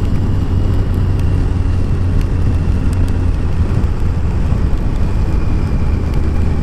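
Kawasaki ZZR1400's inline-four engine running steadily at cruising speed, with a steady rush of wind and road noise.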